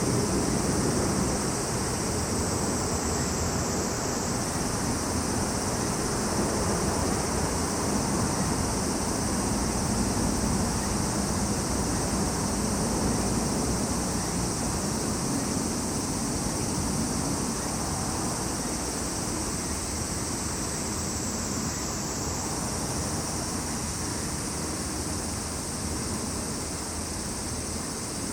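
A chorus of summer insects, cicadas and crickets, singing in a steady, unbroken high-pitched shrill, with a low rumble underneath. One voice in the chorus shifts slightly about 4 seconds in and again about 22 seconds in.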